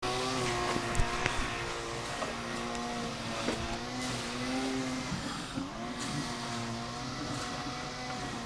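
Zero-turn mower engine running steadily, its pitch dipping and wavering briefly about five to six seconds in before settling again. A few sharp clicks sound near the start.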